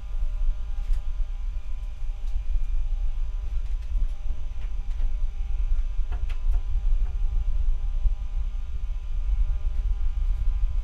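Noise from a bad microphone: a loud, fluttering low rumble with a steady electrical hum and faint whining tones layered over it, plus a few faint clicks.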